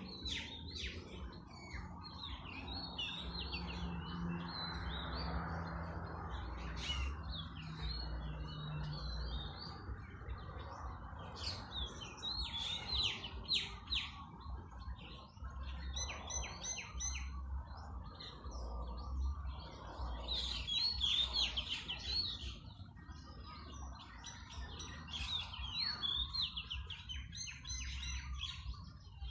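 Many small birds chirping and twittering rapidly over one another, with a low steady rumble underneath.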